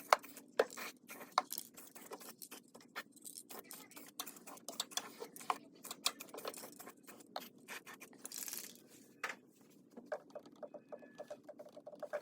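Aerosol can of Rust-Oleum clear coat being handled and sprayed: irregular clicks and taps throughout, with a short spray hiss about eight and a half seconds in.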